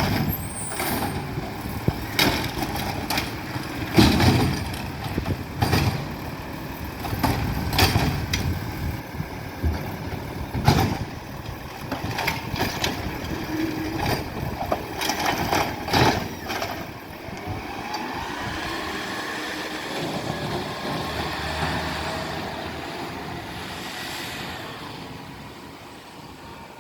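Garbage truck at work: a string of loud metallic bangs and clanks. After about 17 s the engine rises in pitch with a whine, then fades away.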